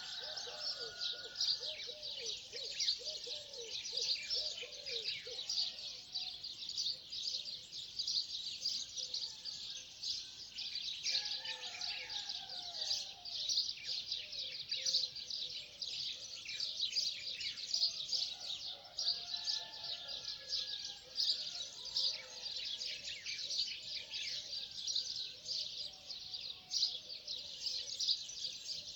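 Dawn chorus of many small birds chirping densely and without pause, with lower, slower bird calls joining in for a few seconds at a time, at the start and again near the middle.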